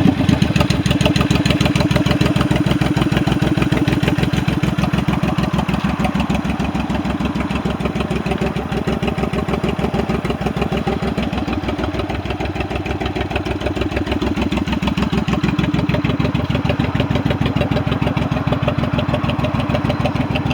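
2006 Honda VTX 1800C's V-twin idling steadily with an even, rapid pulsing beat.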